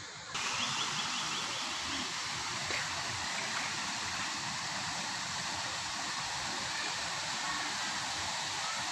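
Steady hiss of heavy rain falling, starting abruptly just after the start.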